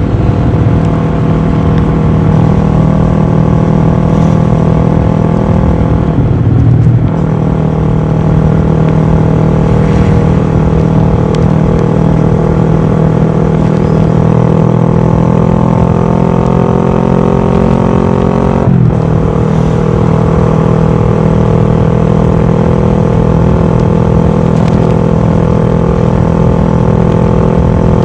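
Kawasaki ER6-F parallel-twin engine running through a full Akrapovic exhaust while the bike is ridden. The note climbs steadily under throttle, with short breaks about 7 and 19 seconds in as it is upshifted, then holds a steady cruise.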